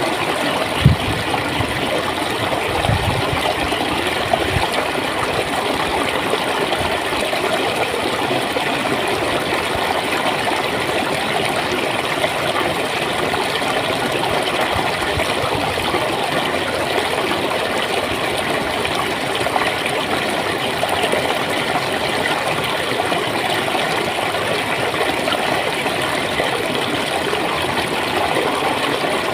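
Clear running water flowing and gurgling steadily, with a few brief low thumps in the first few seconds.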